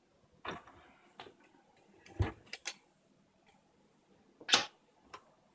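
A handful of scattered light clicks and knocks, as of hard objects being handled and set down. The loudest are a dull knock a little over two seconds in and a sharp click about four and a half seconds in.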